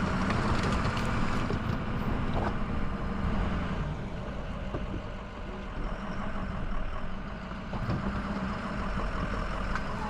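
Plow truck's engine running steadily under load.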